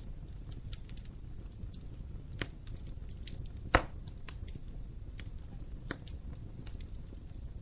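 Wood fire burning in a fireplace: scattered crackles and small pops over a low rumble, with one sharp, loud pop near the middle.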